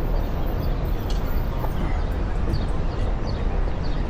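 Steady low rumble of wind and rolling noise on the microphone of a moving Onewheel rider, with a few faint high chirps about halfway through.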